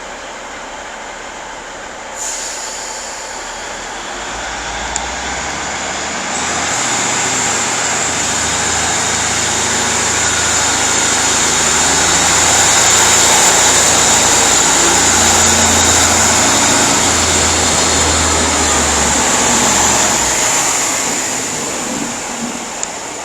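Class 156 Super Sprinter diesel multiple unit pulling out of the station, its underfloor Cummins diesel engines running under power and growing louder, then fading as it draws away. A steady high whine starts about two seconds in.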